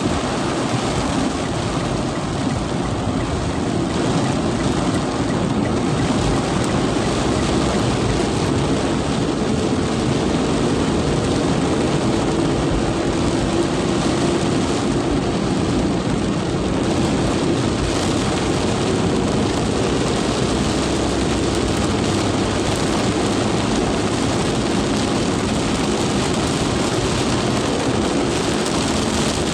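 Heavy rain pouring steadily in a strong wind, a dense even rush with no let-up.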